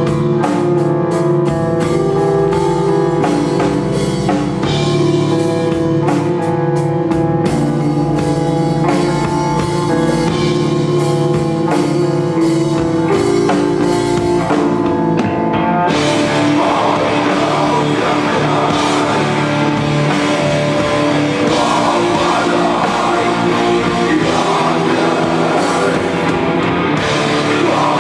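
Rock band playing live, with drum kit and guitar. About halfway through, the music swells into a fuller, brighter, denser passage.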